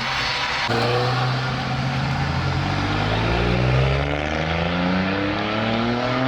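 Car engine accelerating under load, its pitch climbing steadily for about five seconds. It starts abruptly about a second in and cuts off sharply at the end.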